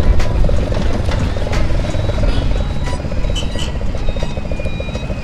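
Bajaj Pulsar NS200's single-cylinder engine running under way through a loud aftermarket exhaust pipe, with a fast, steady pulsing beat.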